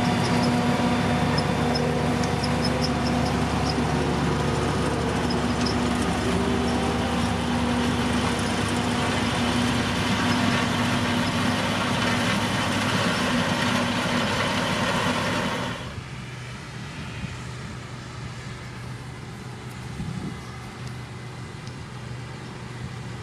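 Diesel engine of heavy road-construction machinery running steadily. About two-thirds of the way through the sound drops suddenly to a quieter, lower engine rumble.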